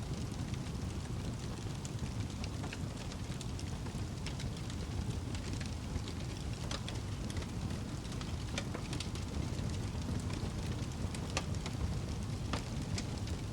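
Wood fire burning in a fireplace: a steady low rumble of the flames with sharp crackles and pops at irregular spacing, several a second.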